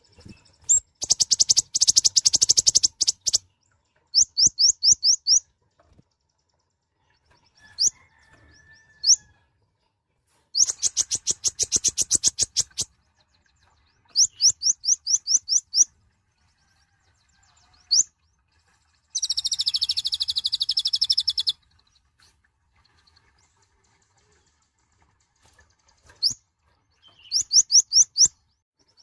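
Kolibri ninja sunbird singing in loud, separate bouts of very high, rapid notes: fast rattling trills about a second in and again around eleven seconds, short runs of quick down-slurred whistles, and a harsher buzzy burst about two-thirds of the way through.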